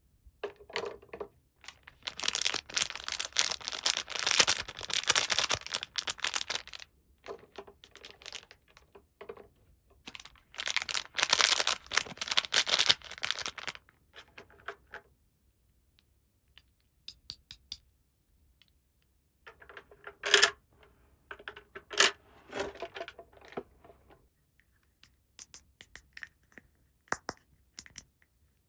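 Toy packaging being unwrapped by hand: two long stretches of crinkling and tearing, then small plastic toy parts clicking and tapping as they are handled.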